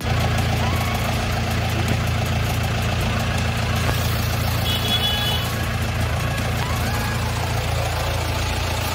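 Mahindra Scorpio's engine idling steadily.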